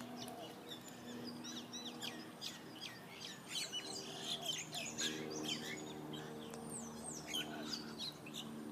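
Many small birds chirping and calling together, with dense overlapping short chirps and quick down-slurred notes, over a faint steady low hum.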